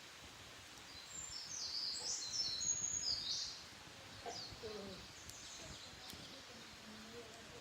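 A wild bird singing a quick run of high notes for a couple of seconds about a second in, followed by fainter, lower sounds.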